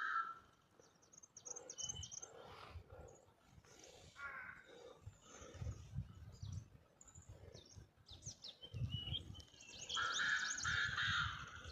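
Koklass pheasant giving its loud, harsh call near the end, over scattered high chirps from smaller birds. Irregular low rumbles run underneath.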